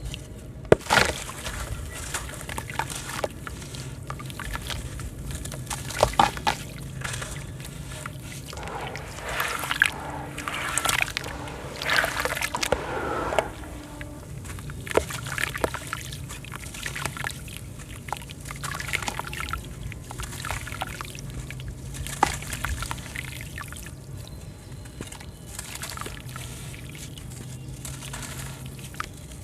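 Sand-cement crumbling in water: chunks breaking up and collapsing with sharp crackles, small splashes and sloshing, the crackling densest from about nine to thirteen seconds in.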